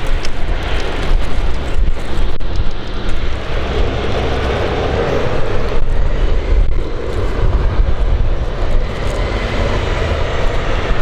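Aircraft engines running steadily and growing a little louder from about four seconds in, under an uneven low rumble of strong wind on the microphone.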